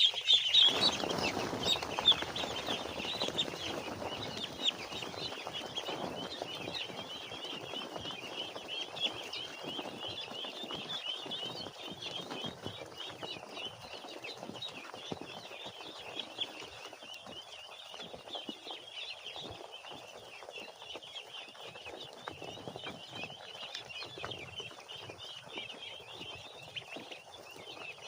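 A crowd of young poultry peeping, many short high cheeps overlapping without a break. A louder rustling noise runs under the cheeps for the first few seconds.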